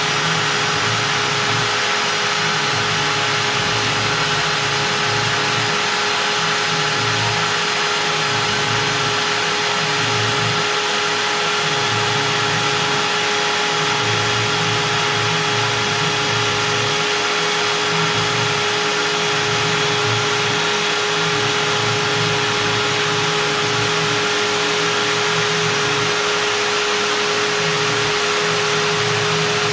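Stepcraft M1000 CNC router's spindle running steadily at 25,000 rpm with a steady whine over a hiss, milling beech with a 4 mm up-down compression bit.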